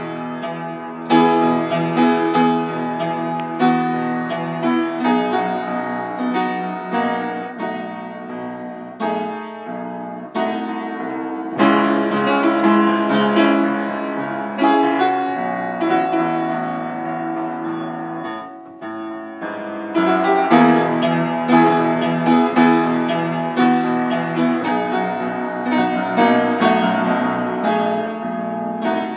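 Solo piano playing a slow worship song in full, sustained chords. There is a brief lull about two-thirds through, after which it comes back louder.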